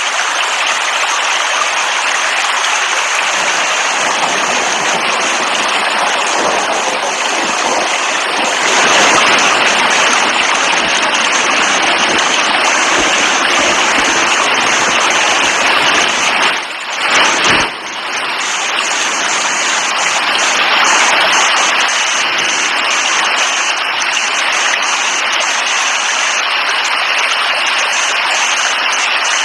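Steady, heavy rain falling: a dense, even hiss of water. A little over halfway through, the sound briefly dips twice and then carries on unchanged.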